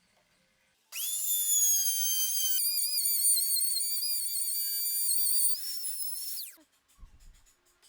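Compact router motor starting up and running at high speed in a high-pitched whine, its pitch wavering in the middle as it cuts wood, then winding down with a falling pitch near the end. A few faint low knocks follow.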